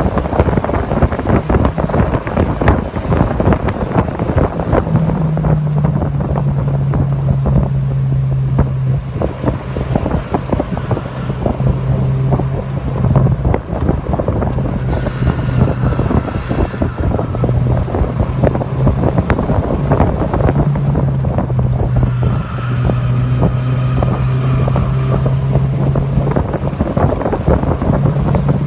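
A Mazda MX-5 Miata (NC)'s four-cylinder engine running at a fairly steady high engine speed under heavy wind buffeting on the microphone. The engine note shifts slightly a few seconds in and again past the middle.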